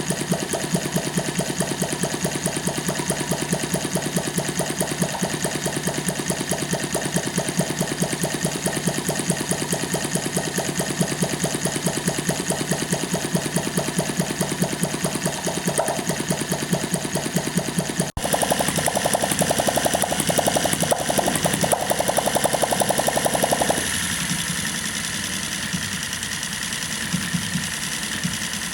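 Retrol HM-01 model hit-and-miss engine running on propane, firing in a fast, even beat. About 18 s in the sound cuts briefly, and near the end the beat turns thinner and uneven, with only occasional stronger firing strokes.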